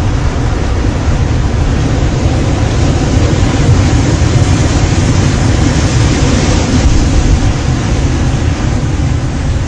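Heavy ocean shorebreak crashing and churning, with wind rumbling on the microphone. The surf swells louder for a few seconds in the middle.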